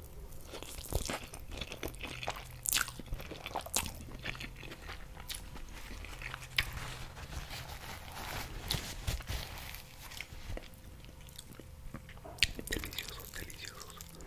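Close-miked chewing of a mouthful of green noodles: wet mouth clicks, smacks and little crunches at irregular intervals. About halfway through, a paper napkin briefly rustles as the mouth is wiped.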